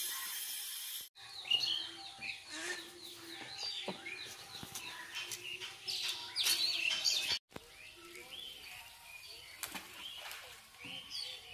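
Small birds chirping and calling in many quick, short notes, behind a steady hiss that cuts off abruptly about a second in.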